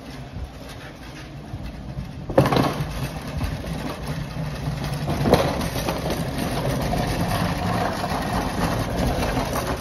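The Sunbeam 1000hp's rebuilt rear V12 aero engine catching suddenly with a sharp bang about two seconds in, then running steadily and loudly, with another sharp bang a few seconds later.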